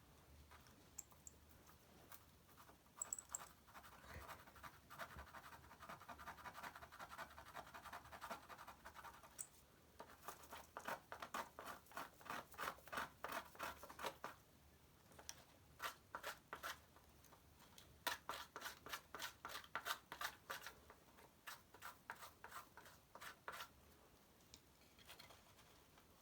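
Birch bark being scraped with a blade to make tinder for a spark: runs of quick scraping strokes, about three to four a second, with short pauses between runs.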